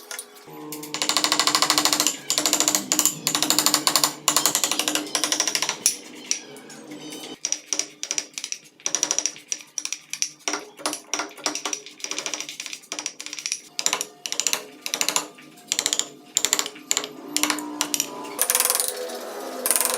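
Hand carving tools working wood: a fast run of sharp cutting and tapping strokes, then slower, separate strikes, over background music.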